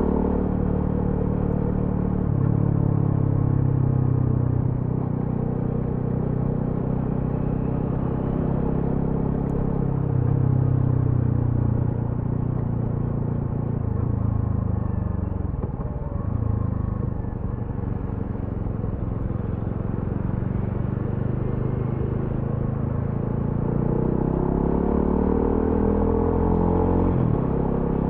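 Single-cylinder engine of a TVS Apache RTR 200 4V motorcycle heard while riding. It runs steadily at first, drops in pitch as the bike slows around the middle, then rises again near the end as it accelerates.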